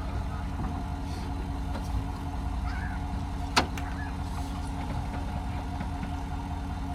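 Parts truck's cold engine running steadily, with one sharp click about three and a half seconds in.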